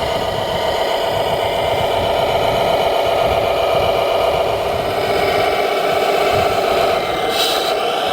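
A radio-controlled model construction vehicle runs with a steady mechanical drone, and a short hiss comes in near the end.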